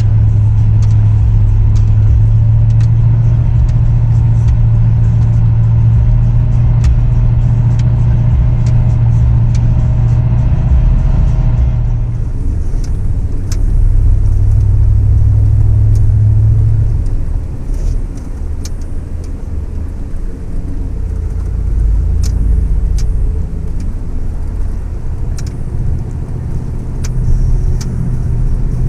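Truck engine running under way on a snowy trail, a steady low drone that eases off about two-thirds of the way through, with scattered clicks and knocks from the ride.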